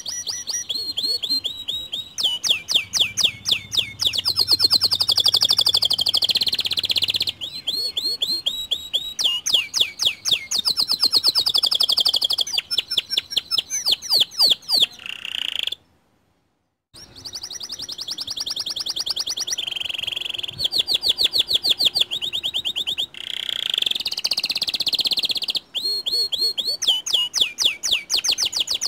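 Domestic canary (white canary) singing a long, fast, high-pitched song of rapid trills and rolling repeated notes. The song stops dead for about a second roughly halfway through, then carries on.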